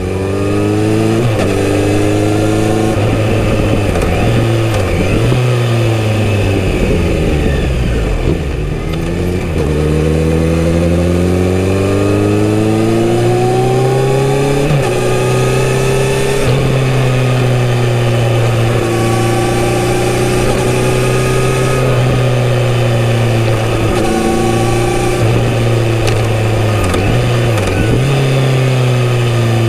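Kawasaki Z900RS inline-four engine through a full-system exhaust, riding under load. Its pitch climbs and drops repeatedly as the bike accelerates and shifts, with a deep drop about eight seconds in as it slows before pulling again.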